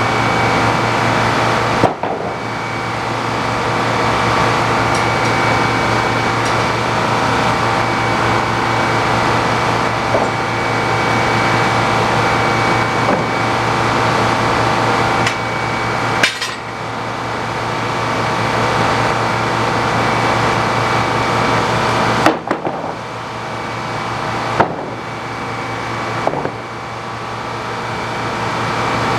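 Sawmill running steadily under power, its engine hum constant, with about five sharp knocks scattered through. After several of the knocks the sound drops a little and slowly builds back up.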